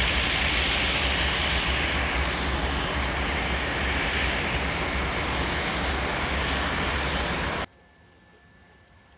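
Steady loud rumble and rushing noise of a train in motion, swelling slightly, that cuts off suddenly near the end and leaves only a faint quiet background.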